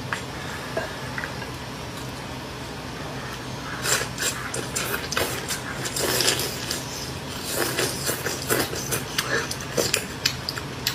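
A person eating hot-pot beef tripe close to the microphone: a dense run of wet smacking and crunchy clicking chewing sounds starts about four seconds in. Under it is a steady low hum.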